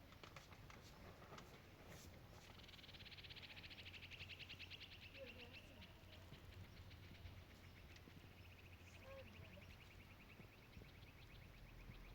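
Faint high rapid trills from a small bird, twice: one starting about two seconds in and lasting about three seconds, another from about eight seconds on, falling slightly in pitch.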